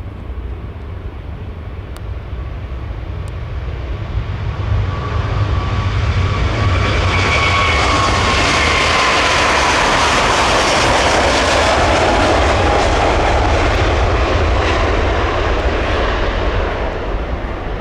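Airbus A350-1000's twin Rolls-Royce Trent XWB jet engines at takeoff power as the aircraft passes on its takeoff run. The sound builds to a loud peak in the middle, its whine sliding down in pitch as it goes by, then fades near the end.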